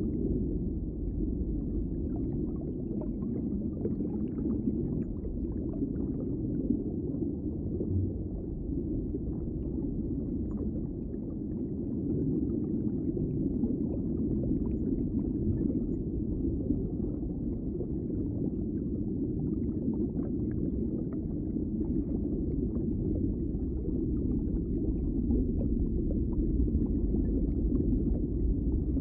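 Underwater ambience: a steady, muffled low rumble with faint scattered crackles and clicks.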